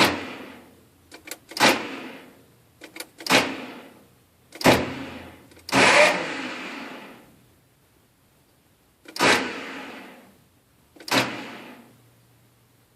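LTZ T-40 tractor starter engaged in short tries, about seven times, each a sudden metallic clank that rings out over about a second; the engine does not catch. The starter's bendix drive is not engaging the flywheel ring gear, which the owner puts down to a worn ring gear.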